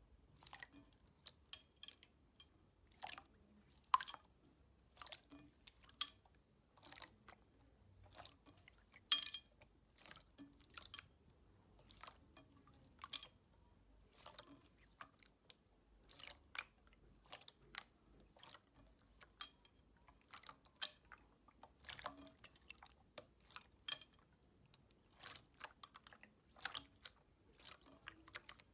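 Slime being squeezed and worked by hand, giving irregular crackling clicks and pops, sometimes several in quick succession, with a louder pop about nine seconds in.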